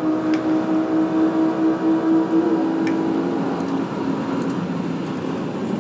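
Car engine running hard at full throttle during a straight-line roll race, a steady drone that holds its pitch. About three seconds in, the strongest note drops away and a lower one carries on.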